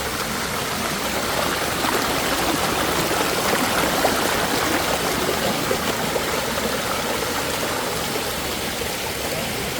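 Waterfall water rushing steadily, an even, unbroken splashing.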